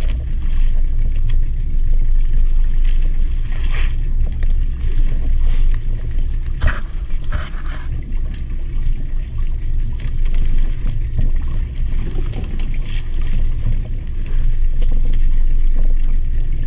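Steady low rumble aboard a small fishing boat at sea, with a few short knocks and rattles on top.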